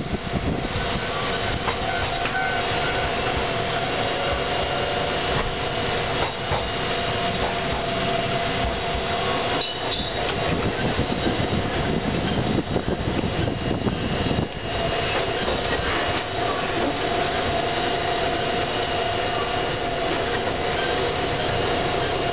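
Ex-Meitetsu 770 series light-rail car running, heard from inside its cab: a steady whine under the rumble of wheels on rail, with knocks as it rolls over points and rail joints.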